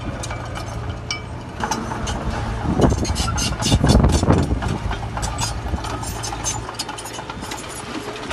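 Heavy diesel earthmoving machinery at work: the engine runs steadily, with many sharp clanks and knocks throughout. It swells louder for a second or two about three to four seconds in.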